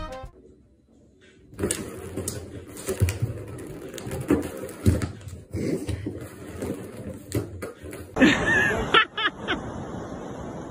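Irregular plastic clattering and knocks from a cat playing at a circular ball-track toy. About eight seconds in, a short high-pitched voice-like cry cuts in.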